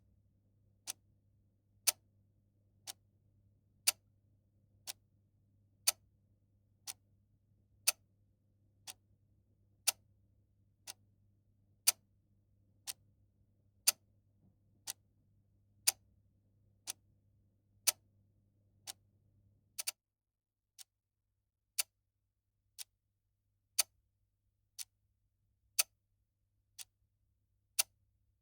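Clock ticking at one tick a second, alternating louder and softer strokes in a tick-tock pattern. A faint low hum sits underneath and drops away about two-thirds of the way through, while the ticking goes on.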